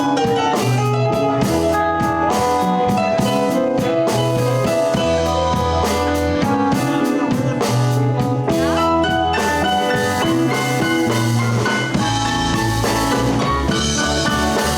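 Live blues band playing an instrumental stretch: drum kit keeping a steady beat under a bass line and held chords and lead notes.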